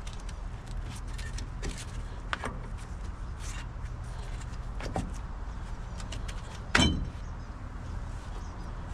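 Scattered light metal clinks and clicks of tools and brake parts being handled, with one louder knock about seven seconds in, over a steady low hum.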